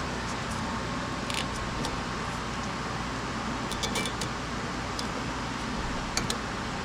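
Nissan Serena's engine idling steadily, with a few light clicks over the top.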